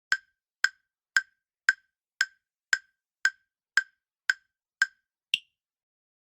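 Quiz countdown-timer sound effect: eleven sharp wood-block-like ticks, about two a second, the last one higher in pitch, counting down the time to answer.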